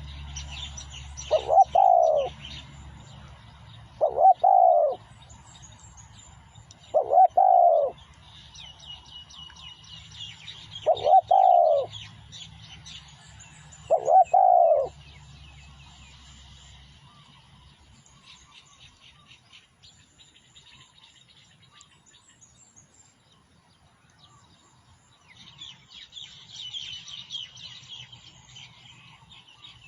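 Spotted dove cooing: five calls about three seconds apart in the first half, each about a second long. Smaller birds chirp faintly throughout.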